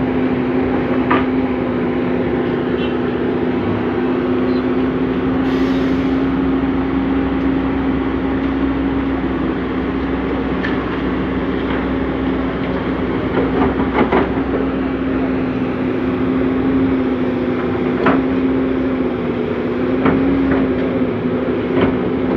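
Komatsu PC200CE excavator running while digging: its diesel engine and hydraulics hold a steady drone, with a few sharp knocks from the machine's working parts and a brief hiss about six seconds in.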